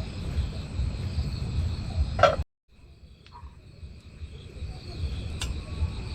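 Insects chirring steadily outdoors over a low rumble. About two seconds in there is a brief louder sound, then the audio drops out for a moment and comes back quieter, with the rumble much reduced and the chirring still going.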